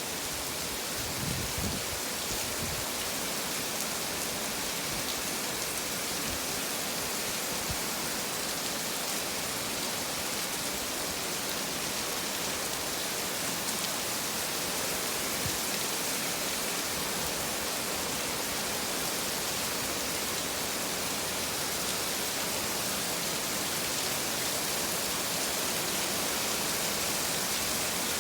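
Heavy rain falling: a steady, even hiss, with a few low bumps in the first few seconds.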